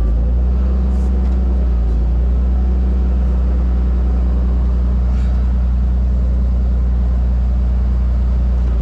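Tow truck engine running at a steady idle, a loud even low drone.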